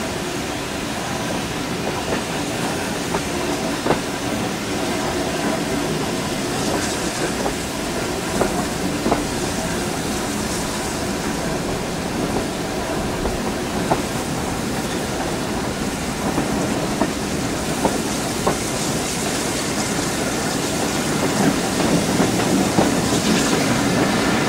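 Steam-hauled passenger train running along the line, heard from an open carriage window: a steady rumble and rush of air with the wheels clicking over the rails every second or two. It grows a little louder near the end.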